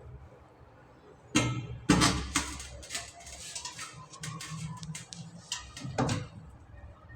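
Sharp knocks and clatters of tools and fittings during a toilet installation, a cluster about one and a half to two and a half seconds in and another near six seconds, over faint background music.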